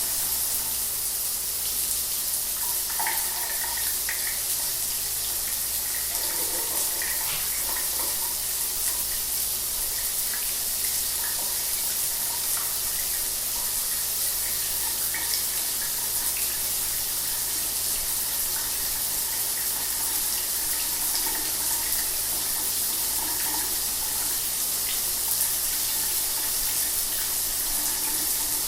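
Shower water running steadily, a constant hiss of spray with small scattered splashes.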